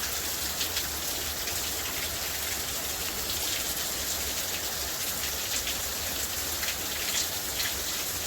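Steady heavy rain pouring down, with scattered sharper drops and drips ticking through the steady hiss.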